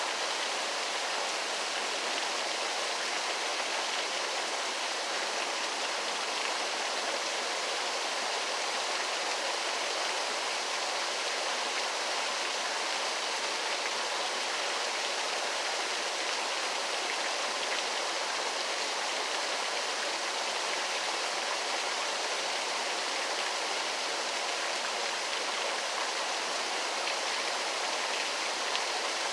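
Waterfall: falling water rushing in a steady, unbroken hiss, mostly high and bright with little low rumble.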